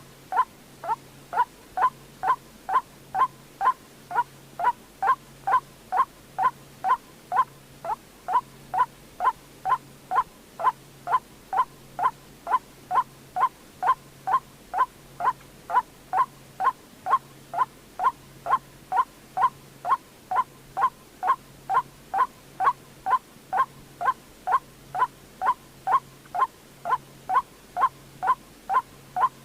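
White-breasted waterhen call: a short, sharp note repeated evenly about twice a second without a break.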